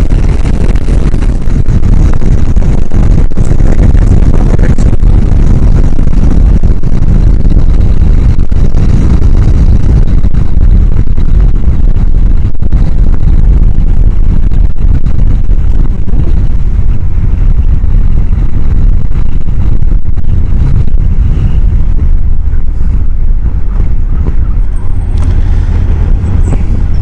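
Loud, steady wind noise buffeting a helmet-mounted microphone that sits behind the chin-bar air vent, over the ride noise of a Honda CBR1000F motorcycle under way.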